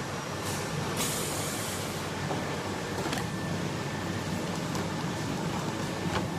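High-frequency TPU canvas welding machine running with a steady hum during a weld, with a short hiss about a second in and a couple of sharp clicks later on.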